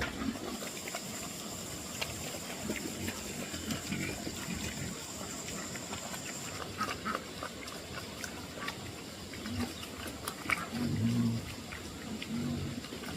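Animal sounds: short low calls a couple of times near the end, over scattered light clicks and knocks.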